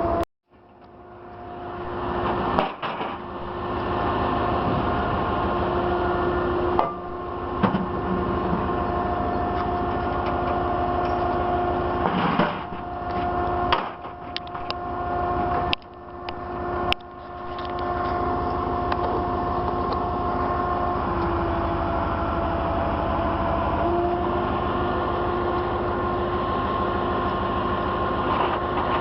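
Tow truck running: a steady machine hum with a constant whine over it. The sound cuts out just after the start and builds back over a couple of seconds. It dips briefly a few more times in the middle.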